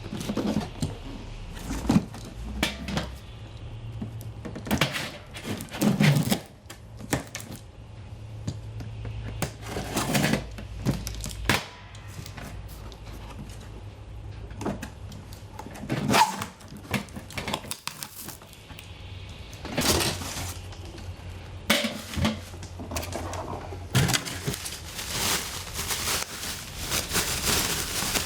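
Unboxing by hand: packaging rustling and crinkling, with irregular knocks and clinks as the metal pot stand for a Flame Stove MAX fire pit is taken out and handled. The rustling grows denser near the end.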